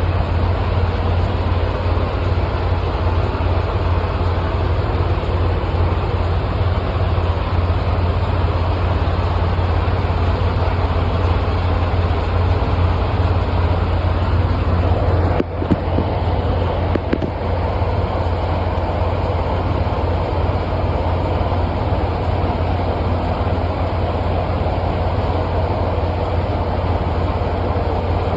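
Semi-truck's diesel engine running with a steady low rumble, broken by a brief click about 15 seconds in.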